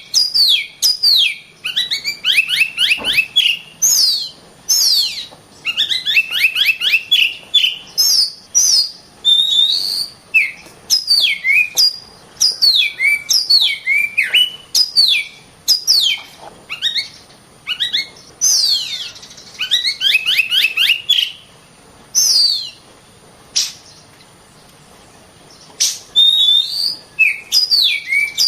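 Oriental magpie-robin (kacer) singing in dense, rapid phrases of sharp whistled notes, many sweeping downward, with a pause of a few seconds near the end.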